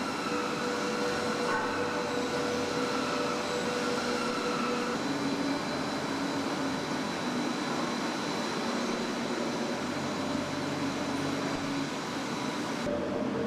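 Steady hum of assembly-plant machinery with a few held whining tones, the mix of tones shifting a couple of times.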